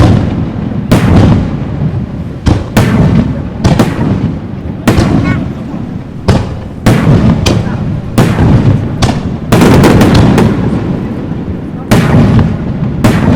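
Aerial fireworks shells bursting overhead, a sharp bang about once a second, each followed by a low rumbling echo, with a quick volley of bangs a little past the middle.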